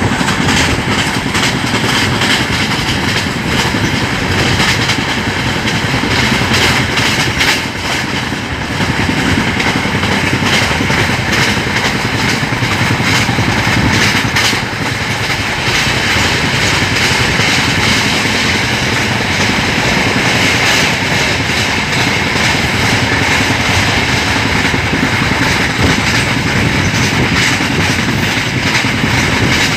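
Swatantrata Senani Superfast Express running at about 110 km/h: a steady, loud rumble and rattle of the wheels and coaches on the track.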